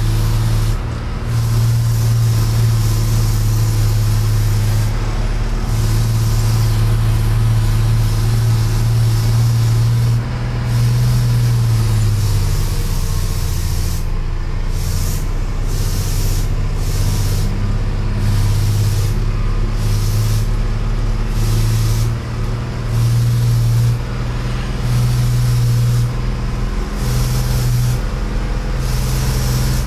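Truck engine running steadily under way, a loud low drone with road and wind hiss over it.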